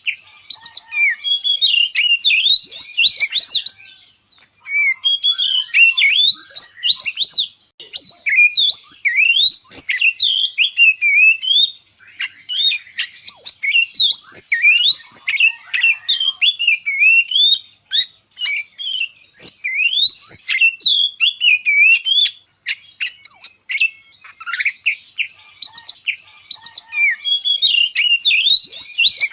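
Small songbirds in an aviary chirping and twittering: fast high-pitched notes sweeping up and down, coming in busy bouts with brief lulls between them.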